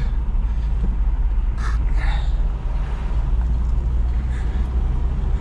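Old pickup truck's engine running smoothly while driving, heard from inside the cab as a steady low rumble; the engine is freshly cold-started. A short breathy sound about two seconds in.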